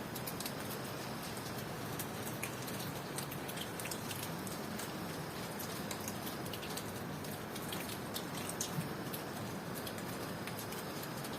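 Steady rain falling, with many separate drops ticking sharply through the constant hiss. A faint, steady high cricket trill sits underneath.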